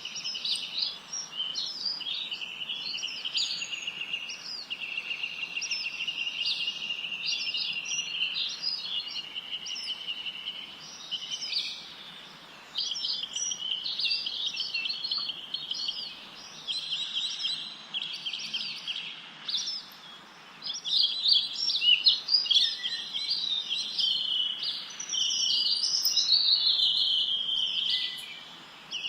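Several small songbirds singing and chirping at once, a dense chorus of overlapping high-pitched trills and quick chirps over a faint steady hiss, with a louder run of chirps about two-thirds of the way through.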